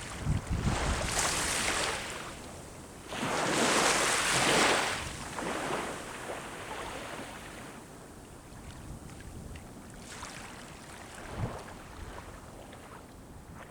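Sea waves breaking and washing up a shore. Two surges come in the first five seconds, the bigger one about three seconds in, followed by a quieter lull with a smaller wash near the ten-second mark. Some wind rumbles on the microphone.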